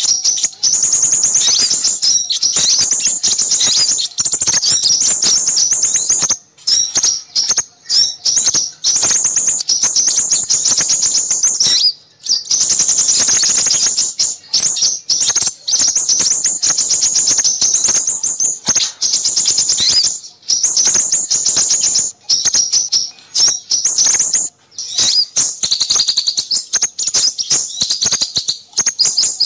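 Dense, fast, high-pitched chirping and twittering of small birds, a noisy bird-lure recording used to draw in crimson sunbirds. It runs almost unbroken, with only brief pauses.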